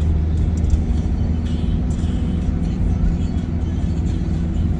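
Steady low rumble of a car being driven, heard from inside the cabin, with music from the car radio under it.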